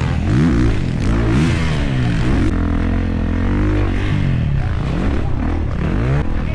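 Dirt bike engine revving as it is ridden, its pitch rising and falling again and again as the throttle is opened and closed.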